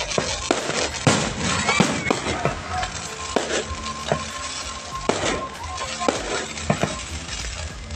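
Fireworks going off in irregular bangs, several a second, over background music and crowd voices.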